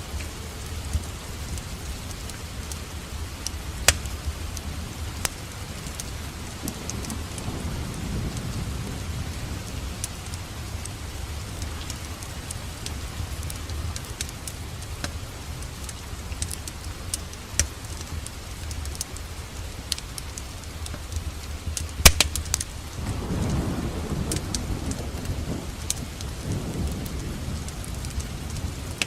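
Steady rain mixed with a crackling wood fire, sharp pops scattered through it, the loudest about 22 seconds in. Low thunder rumbles twice, around eight seconds in and again from about twenty-three seconds.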